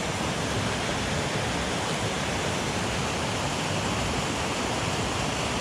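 Mountain headwater stream rushing steadily: an even wash of water noise with no breaks.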